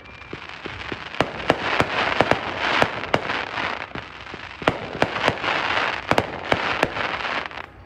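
A 500-gram consumer firework cake firing: a rapid, irregular string of sharp bangs from shells breaking overhead, over a steady rush of noise, with a brief lull about halfway through.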